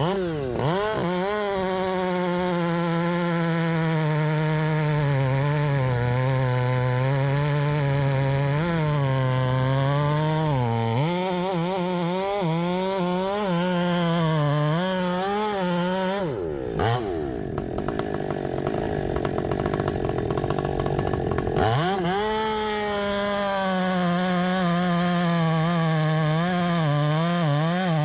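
Husqvarna 564XP two-stroke chainsaw with a 32-inch bar running at full throttle through a cut, its high engine note sagging and wavering as the chain loads in the wood. About two-thirds of the way through, the engine drops off to a low idle for several seconds, then revs back up into another cut.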